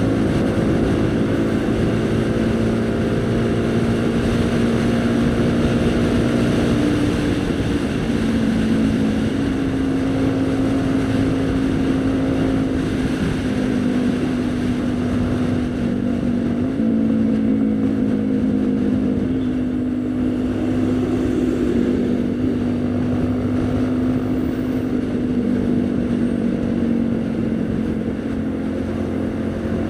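Haojue NK150 motorcycle engine running at a steady cruising pace, its note stepping up and down in pitch every few seconds as the rider opens and eases off the throttle.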